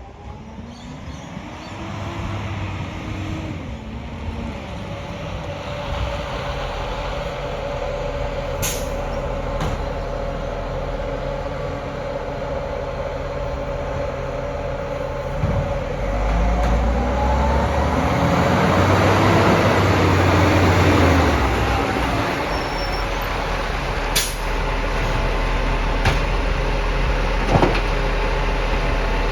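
Garbage truck's diesel engine running, its revs rising and falling twice, with two sharp clicks along the way.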